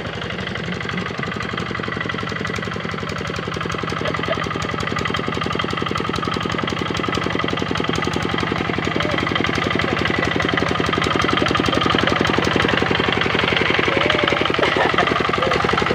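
Kubota RD65 single-cylinder diesel engine of a hand tractor running steadily with a rapid knocking beat, growing gradually louder.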